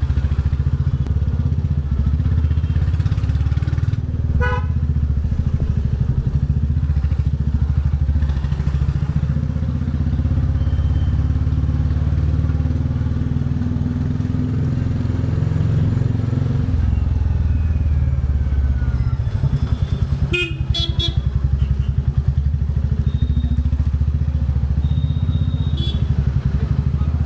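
Royal Enfield Bullet 350's single-cylinder engine running steadily under way, with its low exhaust thump. A vehicle horn sounds briefly about four seconds in, and two louder horn blasts come about twenty seconds in.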